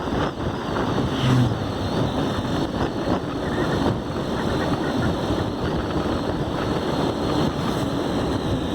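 Motorcycle on the move: steady wind rumble on the microphone over the running engine.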